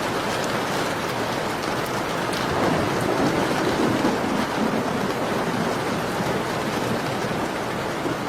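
Steady rain falling, with faint crackling ticks from a wood fire. A low rumble swells about two and a half seconds in and fades by about five seconds.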